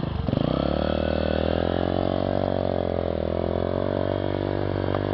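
Small dirt bike engine revving up as it pulls away, then holding a steady pitch with a brief dip in revs about three seconds in.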